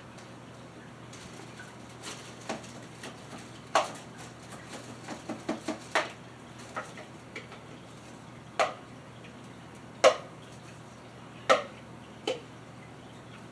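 A spoon clinking, knocking and scraping against a bowl while food is stirred and scooped, with a dozen or so separate knocks, a few quick ones in the middle and three louder single strikes toward the end.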